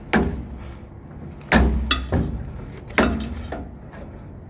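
Wire cutters snipping through wires inside a scrapped microwave: three sharp snaps about a second and a half apart, each followed by a brief rattle.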